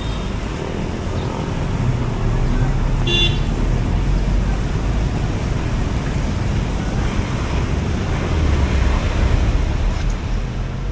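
Road traffic going by in a steady low rumble, with one short horn toot about three seconds in.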